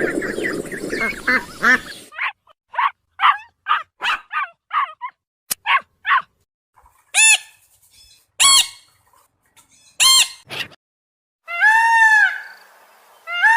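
Geese honking. After a noisy stretch that cuts off about two seconds in, there is a quick run of short calls, then three loud separate honks, and near the end two longer honks that rise and fall in pitch.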